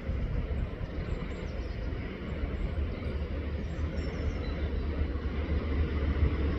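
Steady riverside outdoor ambience: a low rumble under a constant noisy hiss of flowing water, with a few faint high chirps.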